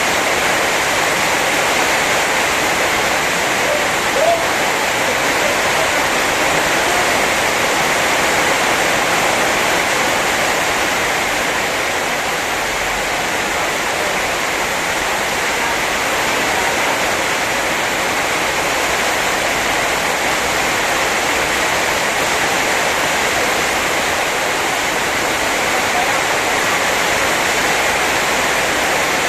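Heavy rain pouring down steadily in a rainstorm, with a short sound about four seconds in.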